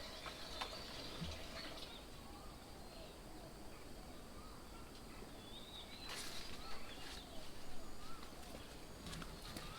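Faint outdoor birdsong: several birds giving short, scattered chirping calls. There are a few brief clicks or knocks about six seconds in and near the end.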